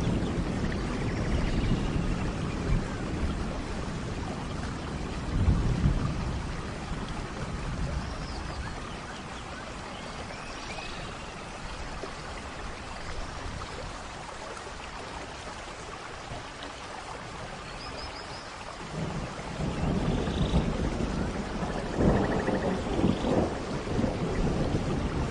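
Steady rain ambience with rolling thunder: a low rumble at the start, fading to mostly rain in the middle, then building again about two-thirds of the way through.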